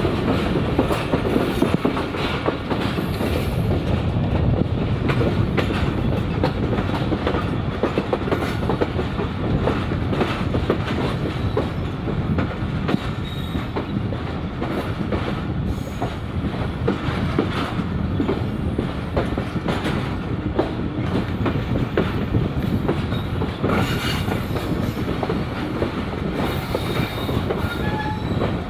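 Shalimar Express passenger train running on the rails: steady rolling noise with its wheels clacking over rail joints and points as it moves onto the main line. A few faint high wheel squeals come near the end.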